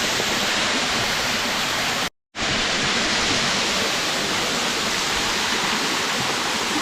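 Steady rushing of a waterfall, water pouring and splashing. The sound cuts out completely for a moment about two seconds in, then resumes unchanged.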